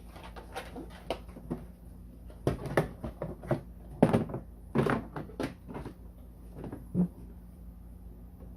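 Irregular knocks and clatter of hard plastic parts of a kids' ride-on electric truck being handled during assembly, busiest in the middle, with one last knock near the end.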